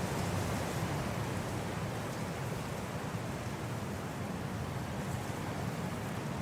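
Snowstorm wind blowing steadily, a low, even rushing noise with no gusts or breaks.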